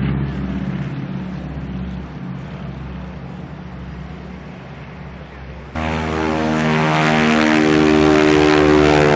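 Propeller airplane engine, fading away over the first few seconds; then, about six seconds in, an abrupt cut to a louder, nearer propeller engine that keeps growing stronger.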